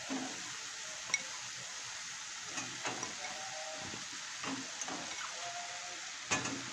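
Pork and sliced onion sizzling steadily as they fry in an enamel pot, with a few light knocks as whole cambray spring onions are dropped in among them.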